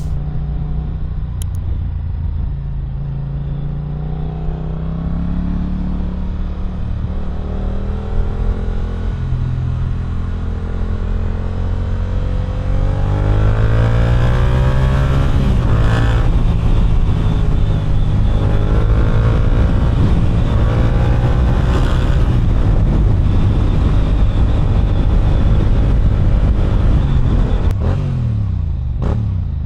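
Yamaha R7's CP2 parallel-twin engine through an Akrapovič exhaust, pulling away and revving up through the gears several times, with the pitch rising on each pull. It runs louder through the second half.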